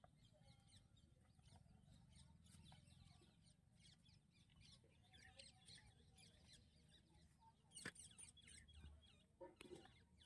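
Near silence, with faint, scattered bird chirps and a single click about eight seconds in.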